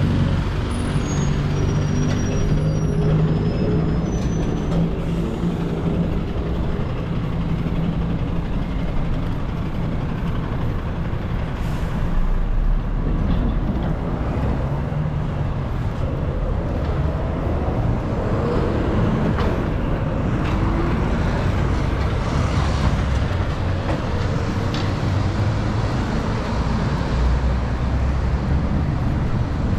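Busy road traffic with heavy vehicles running and passing close by: engine hum over a steady rush of tyre noise, and a rising engine tone as a vehicle pulls away about two-thirds of the way through.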